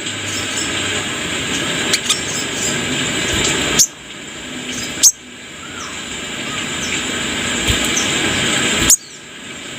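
Heavy hiss that swells and then cuts off abruptly three times, as spliced segments of a looped recording. Faint, short, high chirps of a small songbird are buried under it.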